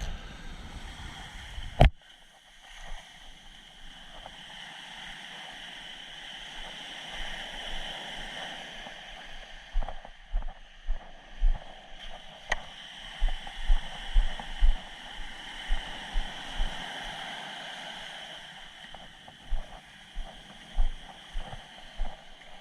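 Steady wash of sea surf, with a sharp knock about two seconds in and a run of short, dull low thumps in the second half.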